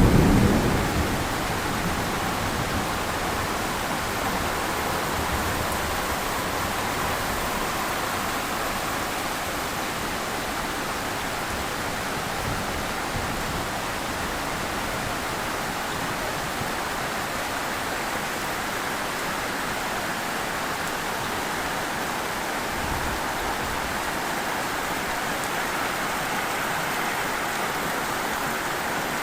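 Heavy rain falling steadily, a dense even hiss with no letup. In about the first second, the tail of a thunder rumble dies away.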